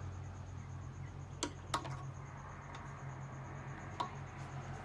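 A few sharp, separate clicks of screwdriver tips on the hard plastic around a lawnmower engine's primer bulb as the bulb is pried at, over a steady low hum.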